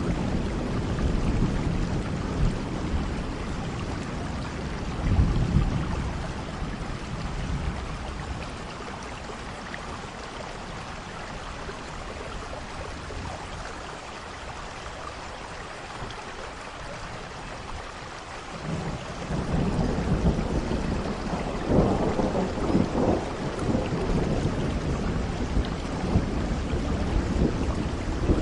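Steady rain with thunder rumbling. The rumble dies away about a quarter of the way in, leaving only the rain, and a new roll of thunder builds about two-thirds through and carries on to the end.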